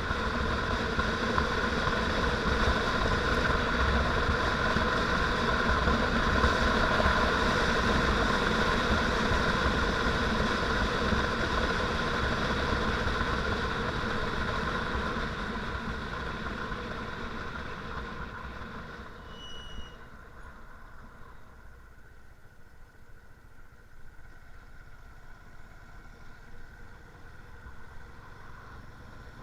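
Motorcycle engine running steadily, then fading to a much lower level over a few seconds about two-thirds of the way through. A single brief high-pitched chirp sounds as it fades.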